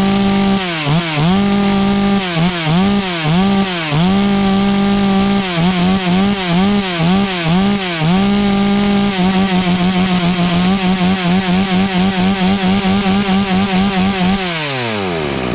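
FarmMac F380W 72cc two-stroke chainsaw revving at full throttle, with the throttle let off and snapped back open again and again, then a fast even pulsing, and a falling pitch near the end as it drops back toward idle. It is screaming at the top end, its carburettor just leaned by about an eighth of a turn clockwise on the adjusting screw.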